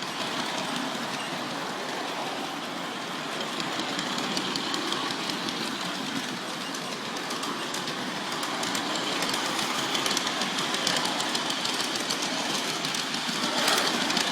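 G-scale model train with a Percy locomotive running on its track, a steady rolling rumble with a rapid clicking of wheels over the rails. It grows briefly louder near the end.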